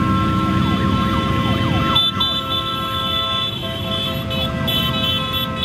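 Many motorcycle engines running together, with several horns sounding held, steady tones. In the first two seconds a string of quick falling siren-like whoops sounds over them.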